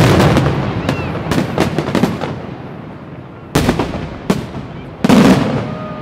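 Aerial fireworks shells bursting: a dense barrage of bangs and rumble fades away over the first two seconds. Then two loud booms about a second and a half apart, with a smaller crack between them, each trailing off.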